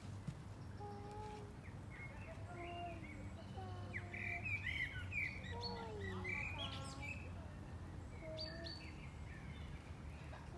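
Several birds chirping and calling, mixing short high chirps with lower, gliding calls, busiest midway through, over a steady low hum.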